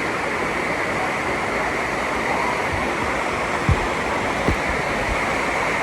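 Steady rush of a cascading waterfall, with two brief low thumps a little past the middle.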